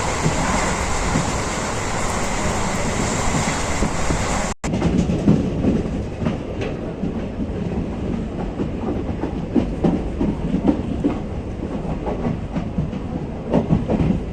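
Passenger train running on the line, heard from aboard: steady rushing noise with wheels clattering over the rail joints. The sound drops out for an instant about four and a half seconds in. After that the hiss is gone and irregular wheel clatter stands out.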